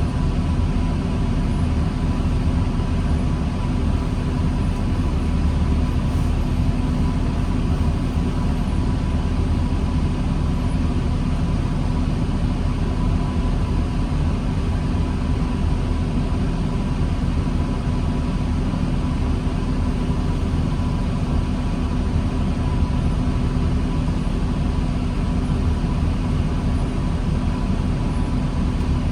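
2009 New Flyer D40LFR diesel transit bus running with a steady low engine rumble and a faint constant whine, with no revving or acceleration.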